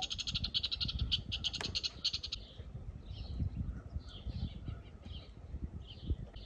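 Wild birds calling: a rapid high trill lasting about two and a half seconds, then short high chirps repeating about once a second.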